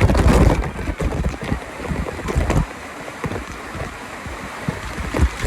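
Wind buffeting the microphone in uneven low rumbles over a steady rush of water.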